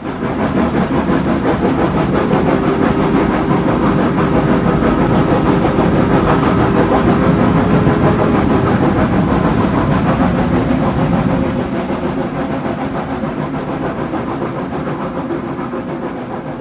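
Railway train running, a dense rapid clatter with a steady tone through it, easing down gradually after about eleven seconds.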